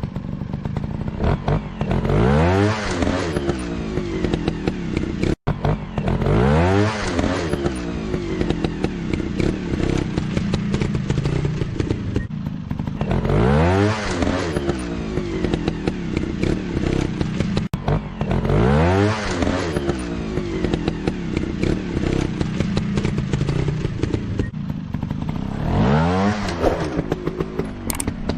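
Dirt bike engines running, with the pitch rising sharply in repeated revs about every five to seven seconds over a steady engine drone.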